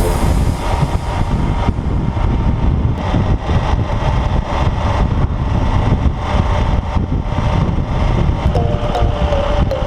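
Motorcycle engine running while riding, with heavy wind buffeting the microphone as a steady low rumble.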